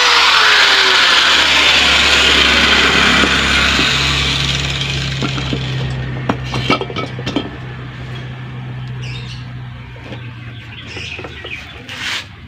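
A power tool grinding into the steel shell of a seized refrigerator compressor, its pitch sinking as it slows. The grinding fades out about halfway through and gives way to light metal clicks and scrapes.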